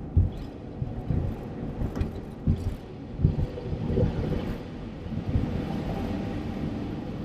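A car driving, heard from inside the cabin: a steady low road-and-engine rumble with a few soft thumps.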